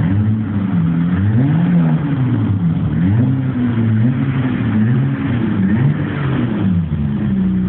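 BMW E30 325i's M20B25 2.5-litre straight-six, with the rear silencer removed, revved up and down several times in quick blips, settling back to a steady idle near the end.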